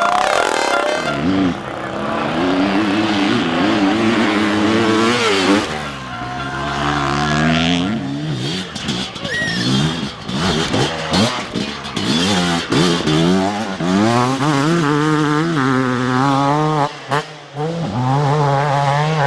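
Motocross dirt bike engine revving up and down with quick throttle changes, its pitch wavering and sweeping again and again.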